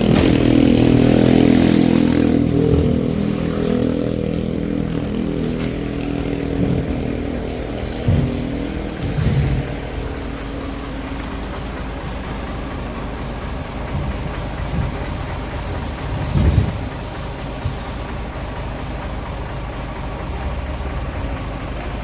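A motor vehicle engine running, loudest over the first few seconds and then settling to a steady drone. A few short low knocks come over it.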